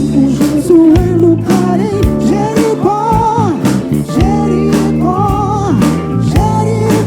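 Live soul band playing a song: drums keep a steady beat under bass and chords, with a melody line gliding over the top.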